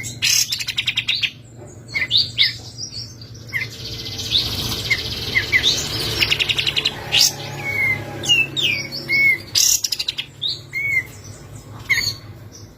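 Kapas tembak songbird calling in quick bursts: short chirps, arched whistled notes and fast rattling trills, over a low steady hum.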